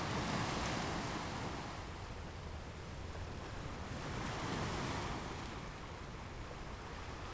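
Sea waves rushing past a cruising ship, mixed with wind. The wash swells near the start and again about four seconds in.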